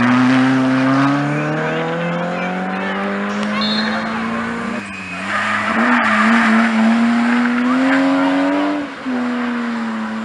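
Rally car engine pulling hard with its pitch climbing, broken by a short drop about five seconds in and another near nine seconds as it changes gear. Around the middle there is a noisy hiss of tyre squeal.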